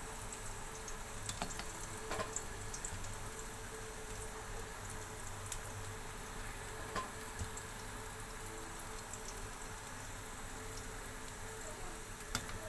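Garlic frying in hot oil with a steady sizzle and a few small pops and ticks of spattering oil.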